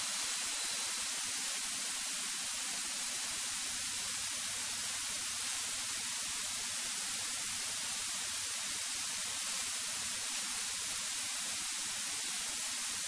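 Steady hiss from the aircraft's intercom and radio audio feed between transmissions, even and unchanging throughout.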